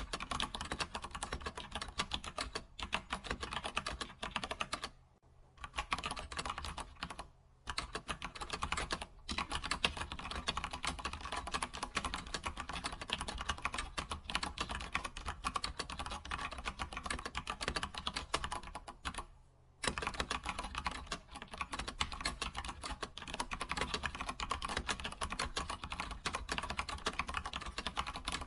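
Computer keyboard being typed on continuously, a fast, dense stream of key clicks with a few short pauses, the longest about five seconds in and again near twenty seconds.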